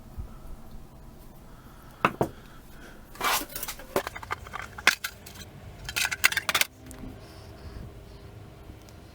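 Small metal tools and string trimmer carburetor parts clinking and clattering as they are handled, in a few short bursts. The loudest rattle comes about two thirds of the way through.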